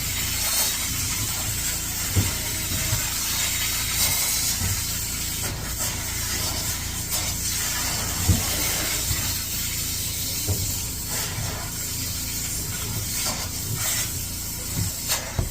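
Upholstery hot-water extraction machine running, a steady spraying and suction hiss over a low motor rumble, with brief surges as the wand works the fabric.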